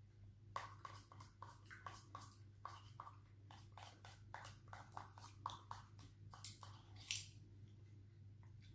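Close chewing of crunchy chicharon (pork rinds): many short, irregular crisp crunches, about two to three a second, over a faint steady low hum.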